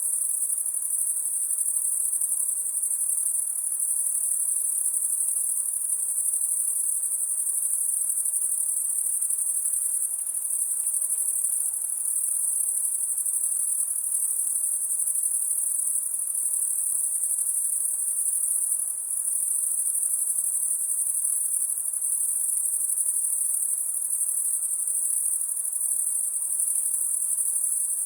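Insects, most likely crickets, trilling in a steady, unbroken high-pitched chorus.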